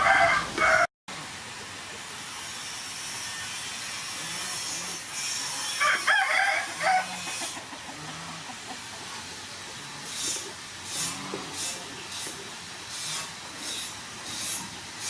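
A rooster crows right at the start and again about six seconds in, over the steady sizzle of the fish and tomatoes frying. From about ten seconds in, a spatula scrapes the pan about twice a second as the stir-fry is tossed.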